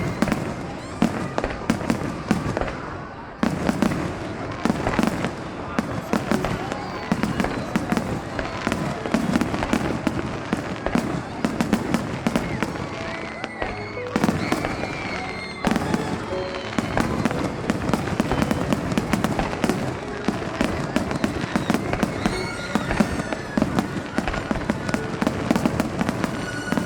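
Fireworks display: aerial shells bursting in quick succession, with booms and crackle, a brief lull about halfway through.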